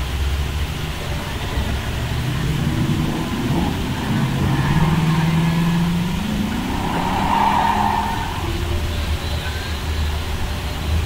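A car engine running with a steady low rumble, its pitch rising about halfway through as it speeds up.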